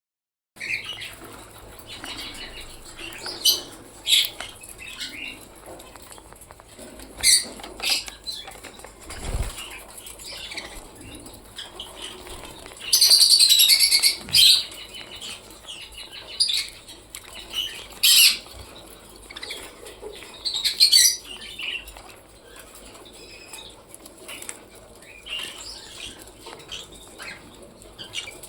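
Pet budgerigars chirping and chattering in short high calls, with a loud run of warbling squawks about halfway through.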